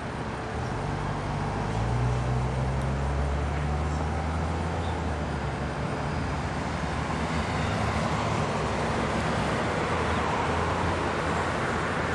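Steady outdoor rumble of distant engines, with a low engine hum that swells about a second in and fades after about five seconds.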